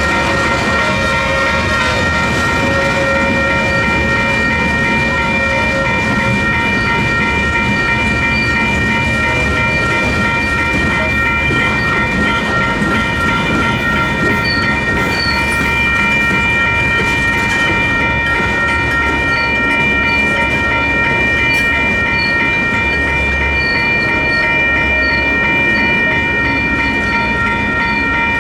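Two WCH electronic railroad crossing bells ringing steadily with rapid, continuous pulsing tones. Under them, the cars of a slow-moving freight train rumble and clack over the rails.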